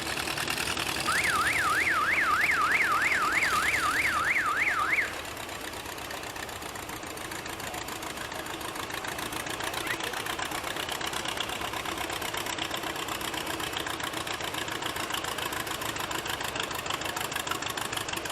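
A warbling electronic siren sounds for about four seconds, sweeping up and down about three times a second. It stops abruptly and leaves a tractor engine running steadily.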